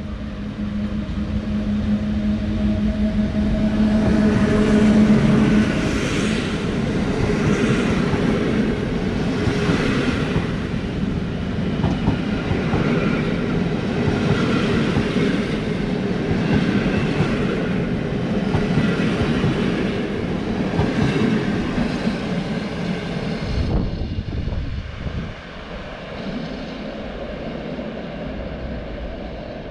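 Locomotive-hauled Intercity express train passing through a station behind an electric locomotive. A steady low tone runs for the first five seconds or so as the locomotive comes in. Then the coaches' wheels clatter in a steady rhythm over the rail joints, and the sound grows quieter as the train moves away near the end.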